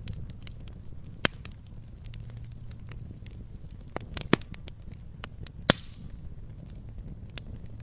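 Campfire wood crackling with a constant patter of small pops and a few sharp, loud snaps: one about a second in and two more between four and six seconds in, over a low steady rumble of the burning fire.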